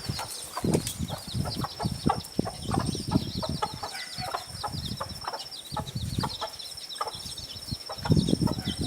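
Mother hens clucking in short low calls while their chicks peep in many small, high, falling chirps.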